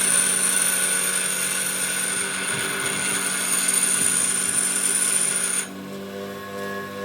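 A power tool working metal: a steady high whine over a hiss, with a motor hum beneath. The cutting noise stops about six seconds in while the motor hum carries on.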